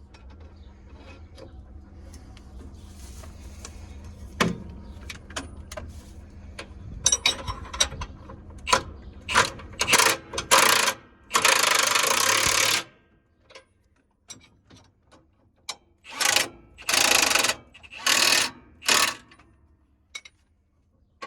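Hand work on a New Holland BB940A large square baler's grease fittings: scattered metal clicks over a low steady hum, then a run of loud hissing bursts, the longest about a second and a half.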